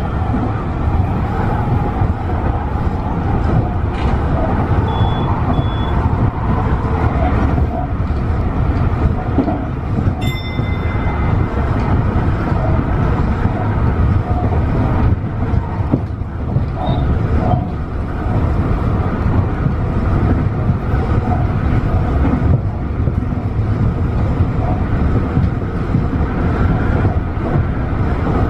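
Tobu 50090-series electric train running at speed, heard inside the car: a steady rumble of wheels on rail and motor noise. A brief high tone sounds about ten seconds in.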